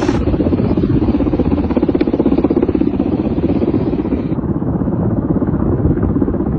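An engine running steadily and loudly, with a fast, even pulse.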